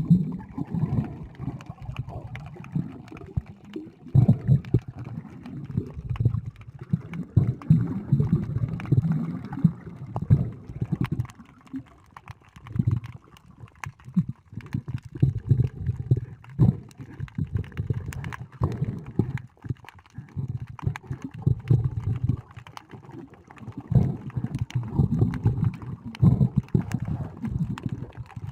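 Sea water moving around a camera held underwater: muffled, gurgling low rumbles that swell and fade every few seconds, with faint scattered clicks.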